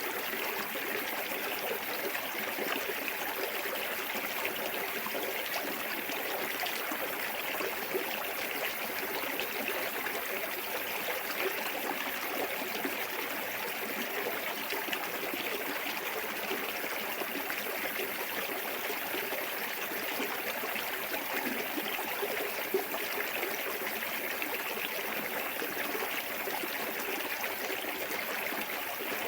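Small waterfall on a clear forest stream, water running and splashing in a steady, even rush.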